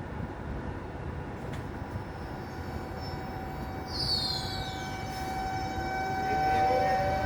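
Electric train at a railway station: steady low rumbling noise, a short high falling squeal about four seconds in, then a steady whine and several tones rising in pitch near the end as the train gets louder.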